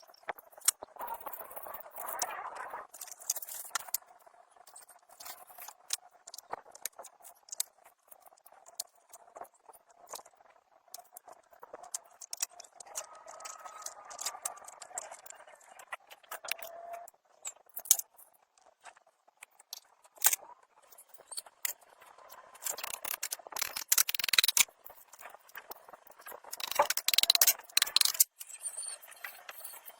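Irregular clicks, taps and rattles of hand work on parts, with a faint steady hum in the middle and two louder stretches of scraping near the end.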